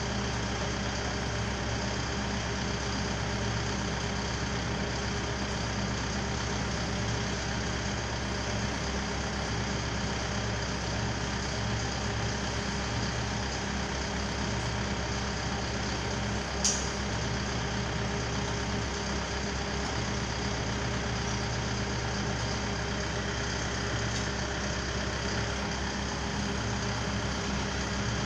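Truck engine idling steadily with an even drone, with a single sharp click about two-thirds of the way through.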